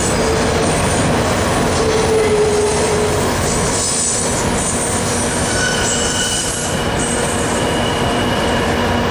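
Intermodal freight train's container well cars rolling past close by: a loud, steady rumble and clatter of steel wheels on the rails, with thin wheel squeals that come and go.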